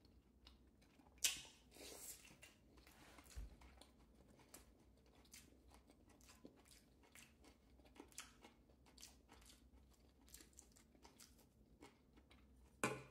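A person chewing a mouthful of fried salmon and Savoy cabbage, faint, with many small wet mouth clicks; one sharper click about a second in.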